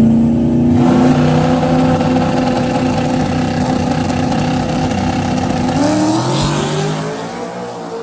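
Truck engine running hard and accelerating, its pitch rising, then fading away near the end.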